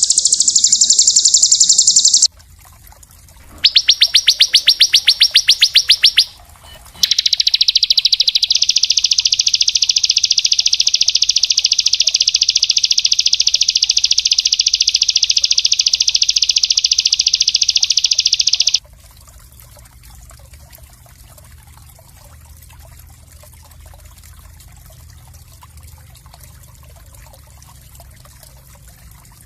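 Recorded song of a small songbird: very fast, dense high-pitched trills. A short trill ends about two seconds in, then a rapidly pulsed trill lasts a few seconds, then one long unbroken trill runs for about twelve seconds. It stops suddenly, leaving a faint hiss like trickling water.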